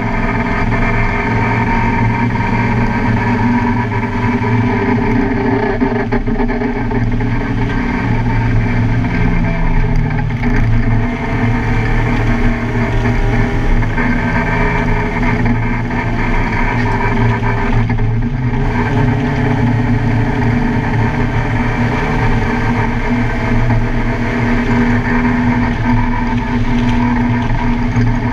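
Car engine running hard on a race track, steady and loud, with its pitch sliding down about nine seconds in and a brief drop about eighteen seconds in as the driver lifts or shifts.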